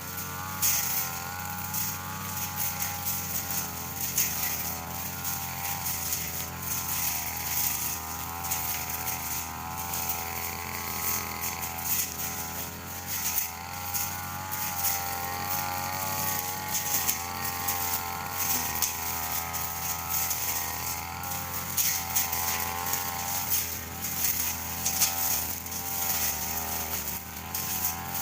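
Brush cutter engine running hard while cutting thin grass, its note wavering up and down as the load changes, with many short crisp swishes and hits from the cutting head striking the grass.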